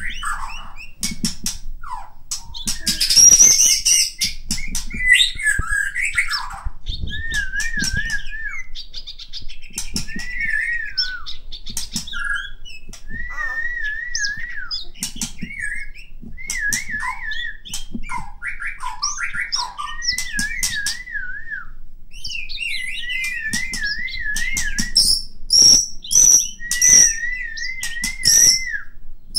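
White-rumped shama (murai batu) of the Medan type singing a long, varied song of whistles and sharp clicks. A warbled phrase repeats every couple of seconds, and several loud high notes come near the end.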